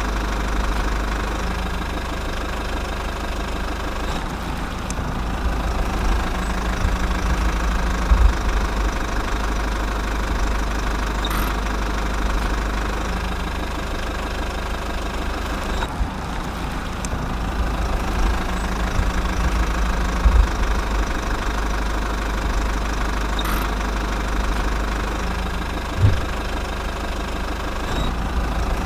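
A small engine running steadily at idle with a low, even hum, and a few short knocks.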